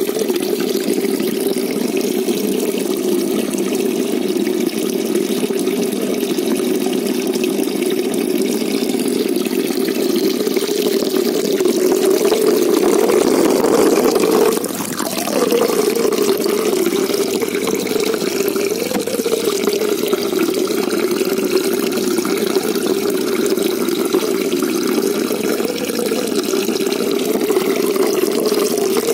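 Steady rush of moving water in a shallow koi pond, strongest in the low range, with a brief drop in level about halfway through.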